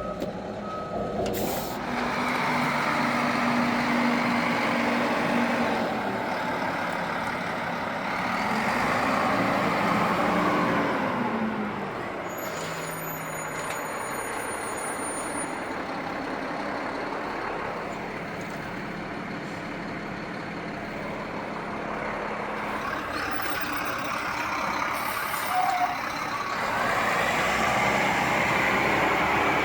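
Front-loader garbage truck running, its diesel engine rising and falling in loudness as it works, with air brakes hissing.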